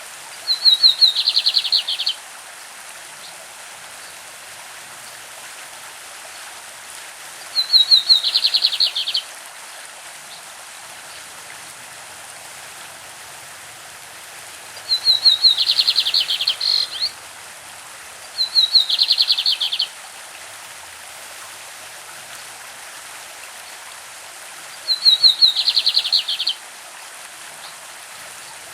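Lined seedeater (bigodinho) singing its classic song five times, each song a quick run of high notes followed by a buzzy trill that drops a little in pitch. A stream rushes steadily in the background.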